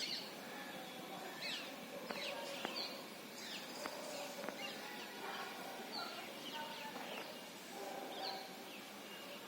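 Small birds chirping, many short quick downward chirps scattered over a steady outdoor background.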